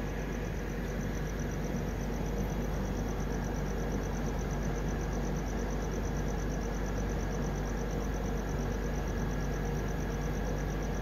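Steady running noise of an express passenger coach at speed, heard from the open side of the coach: wheels on rail and rushing air with a low hum. Over it sounds a fast, even high pulsing of crickets from the lineside.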